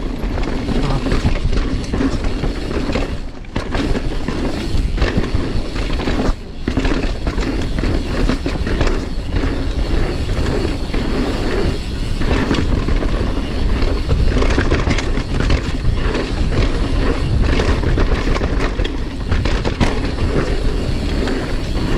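Mountain bike riding fast down a dirt singletrack: tyres rolling and scrubbing over the trail with frequent clicks and knocks as the bike rattles over bumps and roots.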